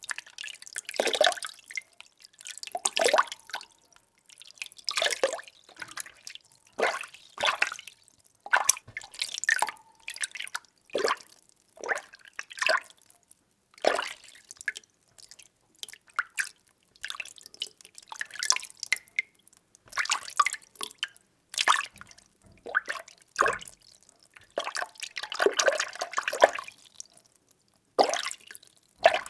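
Water being stirred: irregular sloshes and small splashes, roughly one a second, with brief quiet gaps between them.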